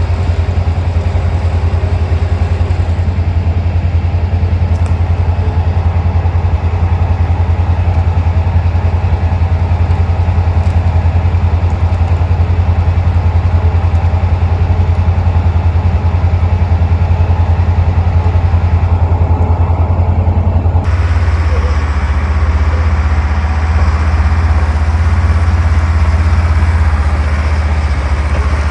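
Bulldozer's diesel engine running steadily under load with a strong low drone. About two-thirds of the way through the sound changes suddenly and becomes brighter and harsher.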